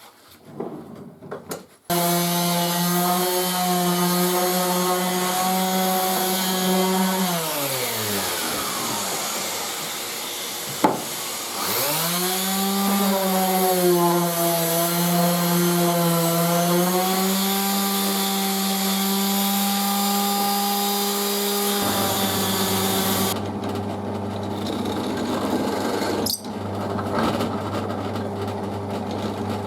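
Electric power tool motor running steadily while working wood. About a quarter of the way in it is switched off and winds down, falling in pitch. After a click it spins back up, and its tone changes near the end.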